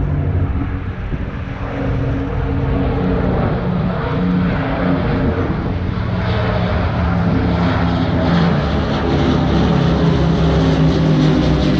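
Avro Lancaster's four Rolls-Royce Merlin V12 engines running in a steady multi-engine propeller drone as the bomber flies past, growing louder and fuller in the second half.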